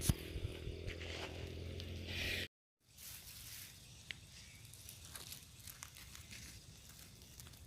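Faint rustling with scattered light clicks, over a low steady hum in the first part; the sound cuts out completely for a moment about two and a half seconds in, then the rustling carries on more quietly.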